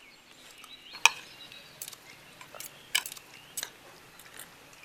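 Spoons clinking against dishes while eating: a handful of separate sharp clinks, the loudest about a second in.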